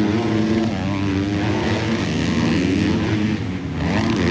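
Several motocross bikes racing on the track, their engines revving up and down through the gears at different pitches. The sound dips briefly about three and a half seconds in, then rises again.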